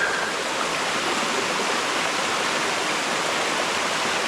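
Running water of a stream rushing steadily, an even unbroken sound.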